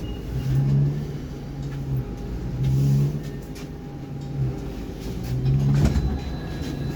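Low electrical hum of a Baltiets metro train standing at a station platform, swelling louder three times.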